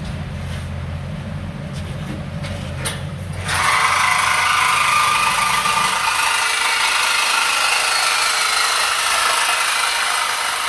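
A power tool starts about three and a half seconds in and cuts loudly and steadily through the steel exhaust pipe to remove the mid muffler. Before it starts there is a low hum with a few clicks.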